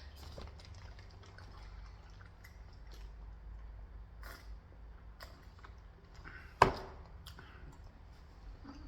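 Close-up mouth sounds of a person eating: quiet wet chewing with scattered small clicks, and one sharp louder click about six and a half seconds in.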